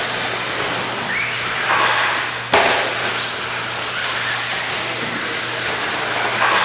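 Several radio-controlled stadium trucks racing, their motors whining and rising in pitch as they accelerate. A sharp knock comes about two and a half seconds in.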